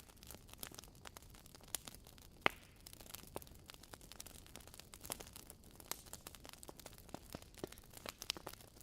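Fire crackling: irregular sharp pops and snaps over a faint steady hiss, the loudest pop about two and a half seconds in.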